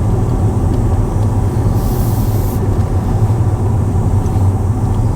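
Steady low rumble of a car moving slowly, heard from inside the cabin, with a brief high hiss about two seconds in.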